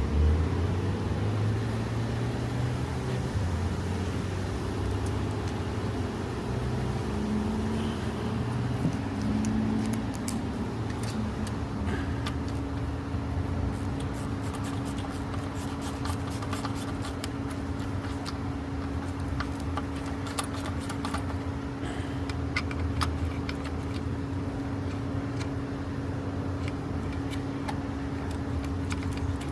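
Wrench clicks and metal tool clinks, scattered and densest through the middle, over a steady low mechanical hum.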